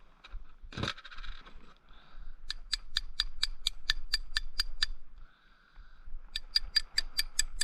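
Ratchet wrench clicking in two quick, even runs of about four to five clicks a second, turning the nut on a homemade carriage-bolt-and-socket bearing press. A single knock comes about a second in.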